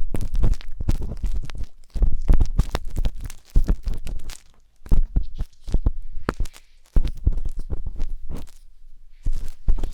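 Wooden skewer scraping and scratching inside a 3Dio binaural microphone's ear, very close: loud, irregular crackly strokes in clusters with low thumps, pausing briefly a few times.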